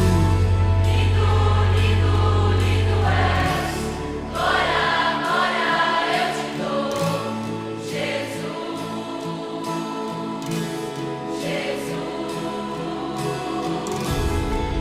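Christian worship song with a choir singing long held notes. The heavy bass drops out about three and a half seconds in.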